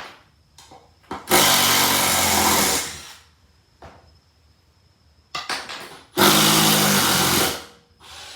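Cordless 12V impact driver, the Milwaukee M12 Fuel Gen 2, run in two short trigger pulls of about one and a half seconds each, with a few small clicks between.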